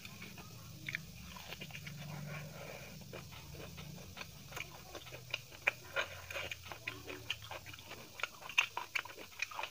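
Close-miked chewing of a mouthful of chicken biryani, with many small wet mouth clicks and smacks that come thicker from about halfway through.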